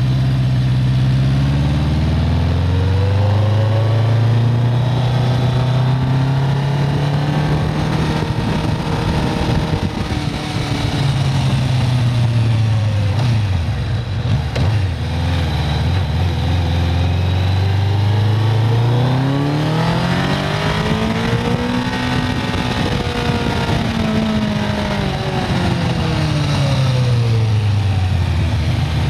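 1995 Kawasaki Concours' 1000 cc inline-four engine pulling up through the revs while climbing, easing off and dropping low around the middle for a hairpin, then revving up again and falling away near the end.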